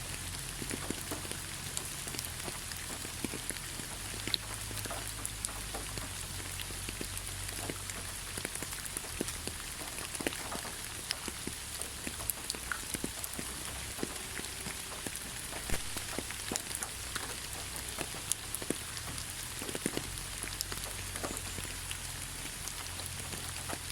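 Steady rain falling in a pine forest: an even hiss of rainfall with many individual drops pattering and tapping close by, over a faint low rumble.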